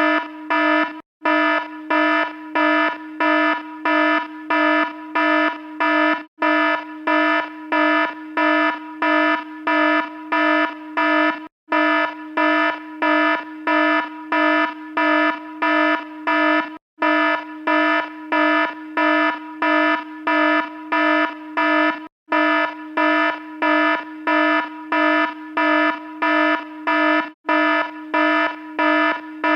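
Electronic alarm sounding a buzzy tone that pulses about twice a second, breaking off for a moment every five seconds or so.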